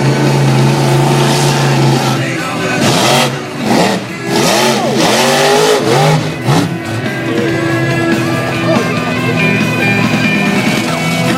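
Bigfoot monster truck's V8 engine revving hard through a run and jump, its pitch sweeping sharply up and down, with heavy knocks about three to four seconds in as the truck hits the cars.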